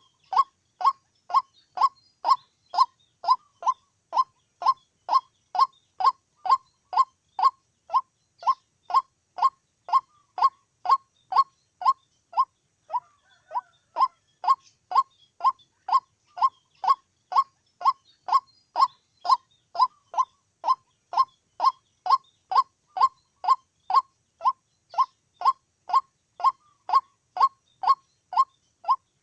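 White-breasted waterhen calling: a monotonous run of short 'kook' notes, nearly three a second, each dropping slightly in pitch, with a brief break about 13 seconds in.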